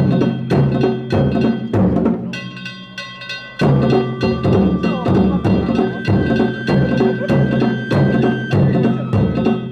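Danjiri narimono ensemble playing: taiko drums beaten in a steady driving rhythm with ringing hand gongs (kane). The drum strokes drop out for about a second just after two seconds in, leaving the gongs ringing, then the full rhythm comes back.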